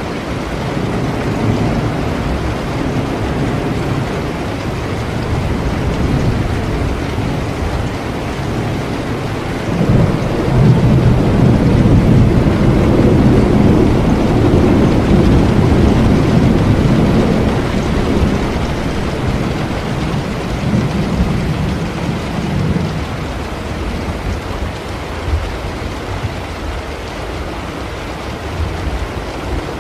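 Steady rain with a long, low rumble of thunder that swells about ten seconds in and slowly fades away over the next dozen seconds.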